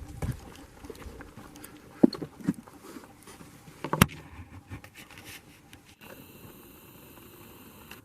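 Handling noise of a handheld camera: a few knocks and scrapes, the sharpest about two seconds and four seconds in. From about six seconds a faint steady set of high tones takes over.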